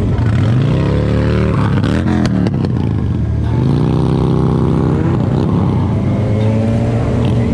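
A vehicle engine accelerating through the gears. Its pitch rises, drops at a gear change about two seconds in, climbs again, and then holds steady at cruising speed, over a constant low rumble of road and wind.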